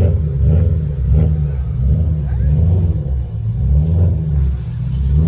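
A car engine revved over and over through a loud exhaust, its deep note climbing and dropping about once a second.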